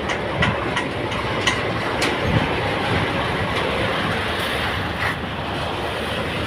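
Excavator's diesel engine running steadily under load while it works to lift a sunken sand barge, with scattered sharp metallic clanks in the first two seconds and a dull thud a little later.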